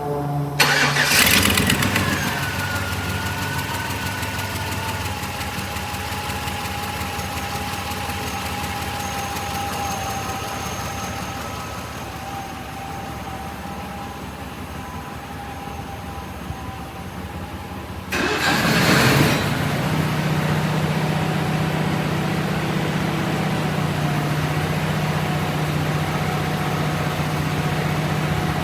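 Bucket truck's 8.1-litre V8 engine cranking and catching about a second in, then idling with a whine that slowly drops in pitch. Around eighteen seconds a second brief loud burst is followed by a steadier, deeper engine hum.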